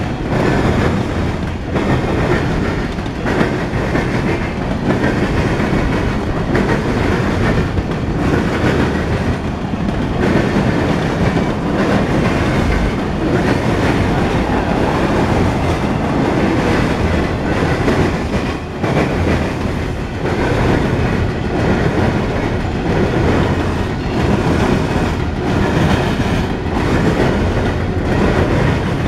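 Freight train cars (boxcars and covered hoppers) rolling steadily past close by: a loud, continuous rumble of steel wheels on rail, with clicking as the wheels pass over rail joints.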